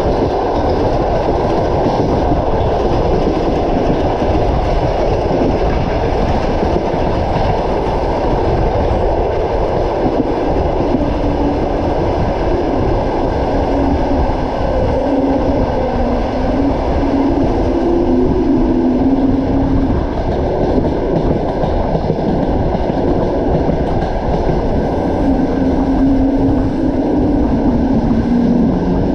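Passenger train running along the track, heard from a carriage window: a steady rumble of wheels on rails with some clickety-clack, and a low hum that comes and goes in the second half.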